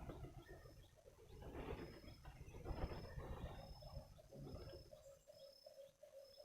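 Wild forest birds calling: a short high note repeated again and again, with fainter lower calls underneath.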